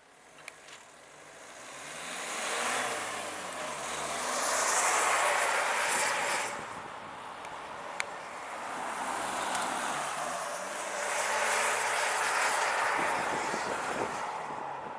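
Renault Mégane 3 Coupé GT dCi 160's four-cylinder turbodiesel heard through a custom stainless-steel exhaust line, its note rising and falling in two long swells over a steady rushing hiss.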